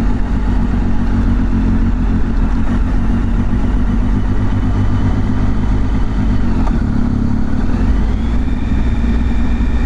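Motorcycle engine running steadily on the move. Its pitch dips about six seconds in and climbs again a couple of seconds later as the revs rise.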